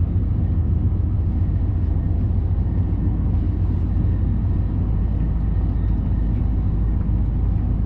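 Steady low running rumble of a Hayabusa Shinkansen train at speed, as heard inside the passenger car.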